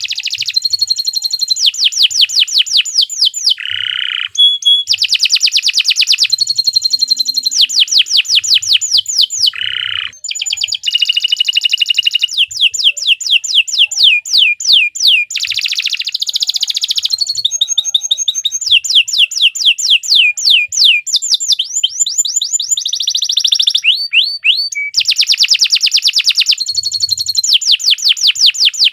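Domestic canary singing a long, unbroken song of fast trills: rapidly repeated high notes, switching to a new trill phrase every few seconds.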